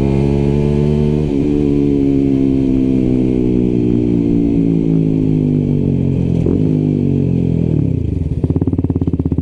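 125cc motorcycle engine running with its pitch slowly falling as the bike slows down. About eight seconds in it drops to a pulsing idle.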